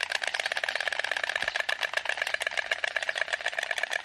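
Stork clattering its bill: a fast, even rattle of many knocks a second.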